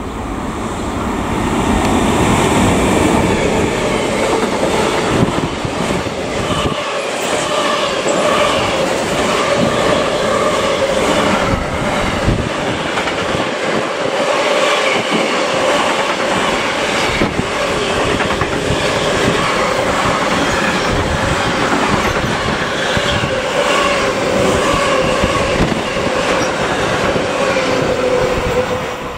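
Train running through a station, its wheels clattering over the rail joints with a steady whine above the rolling noise. The sound builds over the first two seconds and keeps going for nearly half a minute before falling away at the end.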